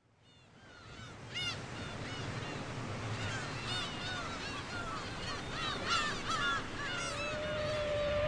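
A flock of seagulls calling over and over, many short arched squawks overlapping, over a steady rush of noise. A rising tone enters near the end.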